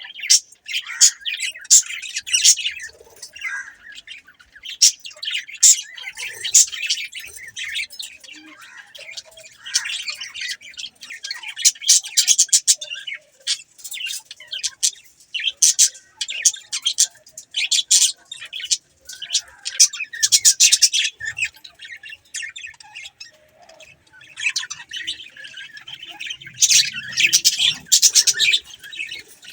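Budgerigars chirping, a busy, continuous stream of short high chirps.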